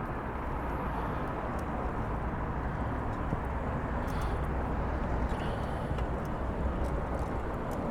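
Steady street traffic noise with wind rumbling on the microphone as the recorder moves along the road.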